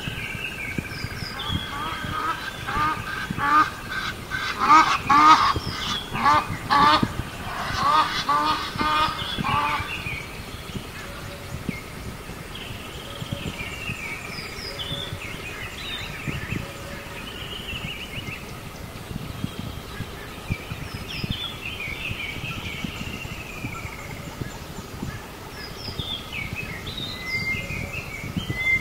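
Birds calling: a dense run of loud, repeated calls for several seconds, then scattered higher chirps and gliding calls over a steady outdoor background.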